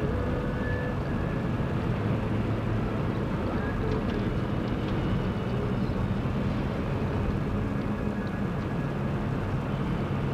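Steady hum of a vehicle's engine with road noise, heard from inside the vehicle.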